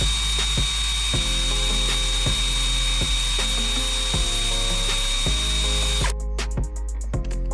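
A loud, steady hiss with a thin high whine, over background music with a regular beat. The hiss stops abruptly about six seconds in, leaving only the music.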